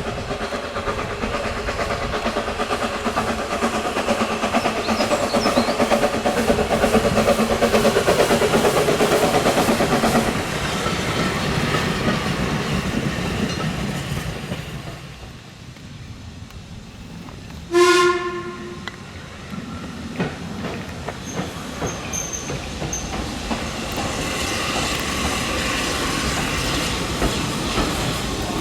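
Steam train running by with rhythmic clatter, loudest in the first several seconds and then fading away. A single short whistle blast comes about 18 seconds in, and train noise builds up again near the end.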